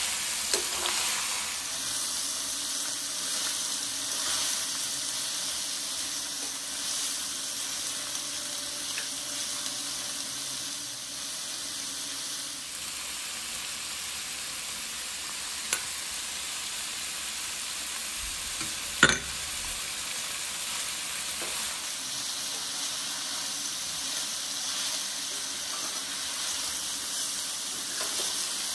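Chicken strips, carrots and onion sizzling as they stir-fry in a stainless steel pan, turned by a metal slotted spoon. A few sharp clinks of metal on the pan, the loudest about two-thirds of the way through.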